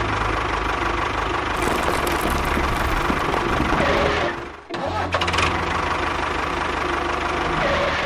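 A small engine running steadily, with a brief break about halfway through before it carries on running.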